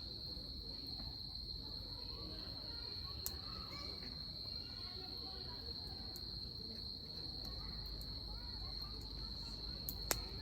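Wood fire crackling in a small titanium campfire pit, with a couple of sharp pops, one about three seconds in and one near the end, over a steady high trill of insects.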